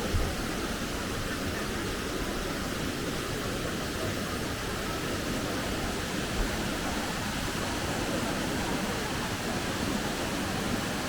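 Minō Falls, a 33 m waterfall, pouring into its plunge pool: a steady, unbroken rush of falling water.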